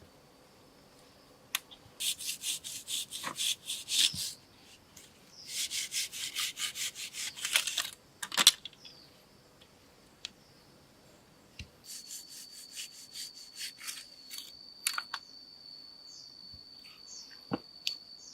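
Two runs of quick rhythmic scraping strokes on wood, like a hand saw or blade working timber, with a few sharp knocks between. Fainter strokes follow later, under a steady high whine.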